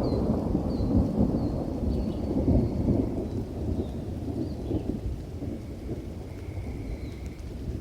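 Rolling thunder rumbling through steady rain, loudest in the first three seconds and then slowly easing off. Small birds chirp and whistle faintly above it.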